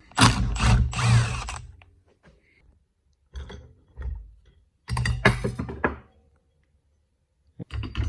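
Hand tools working on a snowmobile's primary clutch during a clutch spring change: several separate bursts of ratcheting and metal clatter with short quiet gaps between them.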